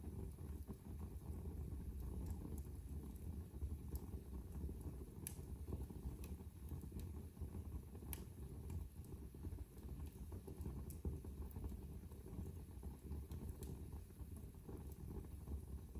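Wood fire burning in a fireplace: a steady low rumble of flames with scattered sharp crackles and pops, roughly one every second or two.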